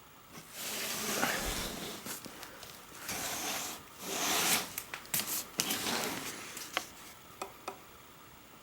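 Box packaging being handled and pulled open: rubbing and scraping in three bursts, with a few sharp clicks and taps toward the end.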